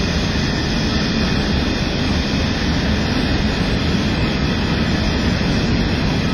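Coal train's hopper wagons rolling past on the rails: a steady, even rumble and rush with no break.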